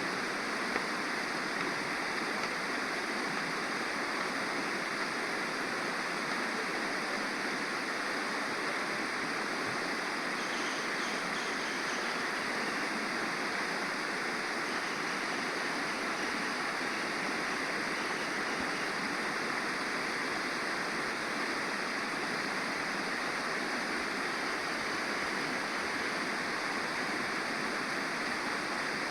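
Water flowing in a stream: a steady, even rush of running water.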